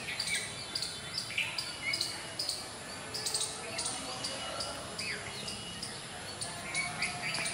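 Small birds chirping repeatedly: many short, sharp high chirps with a few brief falling whistles among them.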